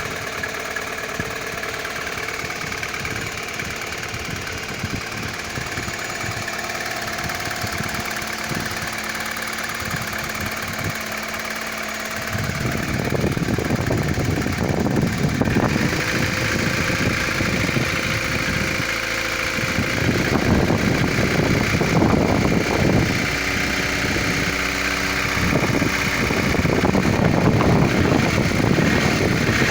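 Opel C16SE four-cylinder petrol engine running, with a rapid knocking from the cylinder head whose cause is unclear. About twelve seconds in it gets louder and its speed rises and falls.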